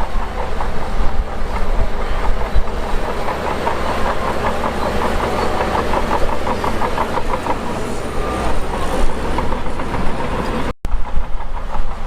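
Shantui DH17 crawler bulldozer at work: the diesel engine runs steadily under a rapid metallic clatter of the tracks, which is strongest in the middle. The sound drops out for an instant near the end and comes back heavier in the low end.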